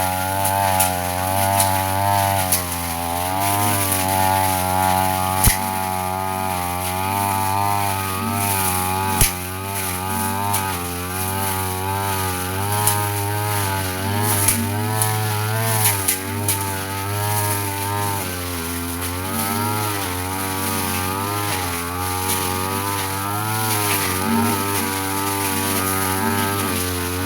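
Petrol brush cutter running at high speed, its engine note dipping and recovering under load as the spinning blade cuts grass. Frequent sharp ticks and snaps of the blade striking crisp, dry grass.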